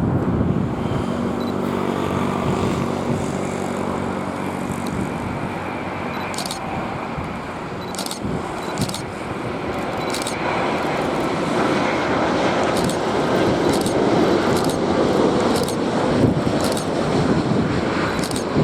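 Jet airliner engines running: a steady rush of engine noise with a low droning hum in the first few seconds. Scattered short clicks sound through it.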